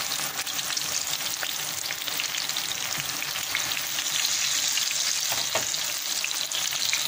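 Chapli kebabs shallow-frying in hot oil in a pan: a steady sizzle with fine, constant crackling and spitting. The kebabs are browning on their second side over low heat.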